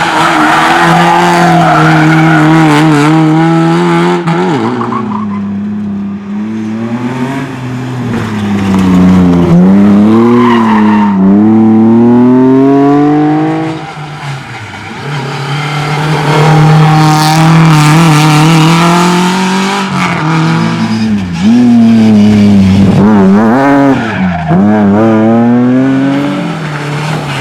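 Rally car engines at full throttle on a rallysprint stage, the pitch climbing through the revs, dropping at each lift or gear change and climbing again, over and over. The loudness dips briefly about halfway through, then returns.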